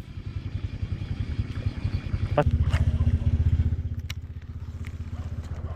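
Small boat engine running with a fast, steady low putter. After a click about two and a half seconds in it runs louder, then eases back a second or so later.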